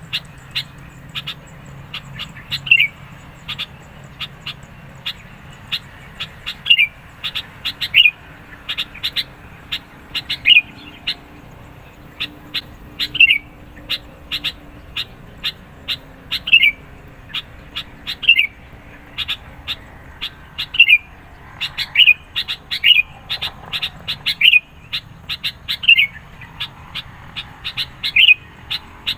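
Sooty-headed bulbul (kutilang) calling insistently: a quick run of short, sharp chirps punctuated every second or two by louder notes that slide downward.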